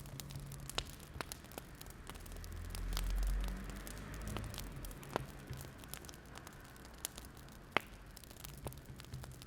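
Wood fire crackling, with irregular sharp pops and snaps of burning logs. A low rumble swells and fades around three seconds in.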